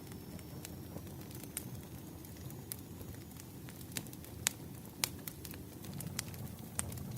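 Wood fire crackling: irregular sharp pops and snaps of burning firewood over a low steady rumble, with a couple of louder pops midway.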